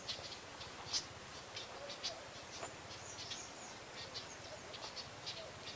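Birds and insects chirping in short, irregular high calls, with one longer curving call about halfway through. A few sharp cracks cut across them, the loudest about a second in.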